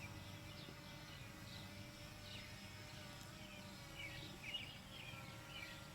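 Faint birdsong: short chirps and warbled phrases, busiest about four seconds in, over a faint steady background hum.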